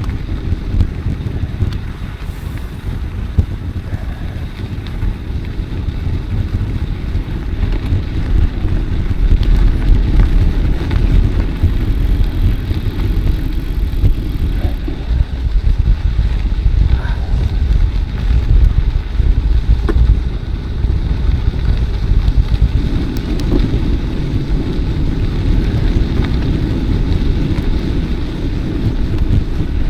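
Wind buffeting the microphone on a moving bicycle: a loud, uneven low rumble that grows a little stronger after the first several seconds.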